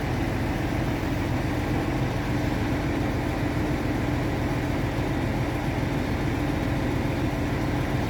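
Boat engine idling steadily with an even, low pulsing drone that does not change in pitch or level.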